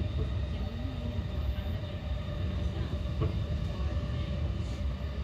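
Steady interior noise of an E233-8000 series electric train car: a low rumble with faint steady tones and a single short knock about three seconds in.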